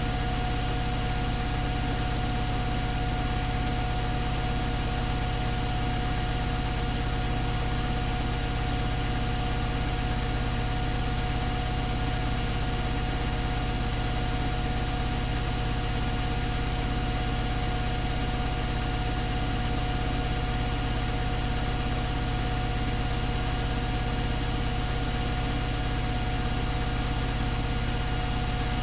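Atlant washing machine running at a constant speed: a steady hum and noise with several high whining tones that hold unchanged.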